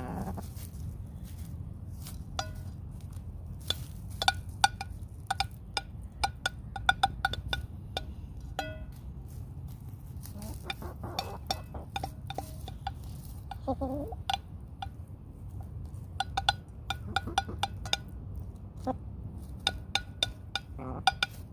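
Hens pecking food off a plate: many quick, sharp beak taps and clinks on the plate, with a few short clucks, over a steady low hum.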